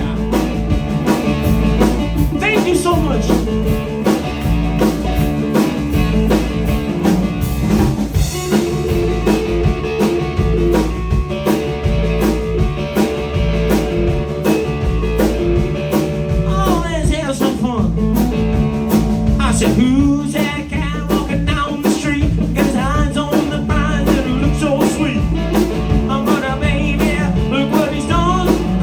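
Blues-rock band playing an up-tempo number: electric guitar leads over bass and a steady drum beat, with bent guitar notes a little past halfway through.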